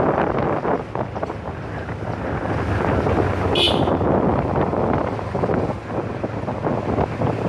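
Wind buffeting the microphone on a moving motorcycle, over the steady hum of its engine. A brief high-pitched sound cuts through about halfway.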